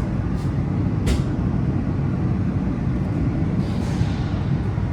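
Washington Metro 6000-series railcar running, heard from inside the car: a steady low rumble with a few short hisses, the sharpest about a second in.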